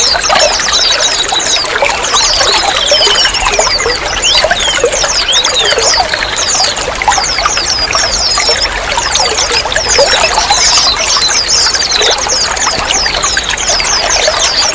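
Running water trickling and splashing steadily, with a dense patter of quick, high chirp-like blips over it.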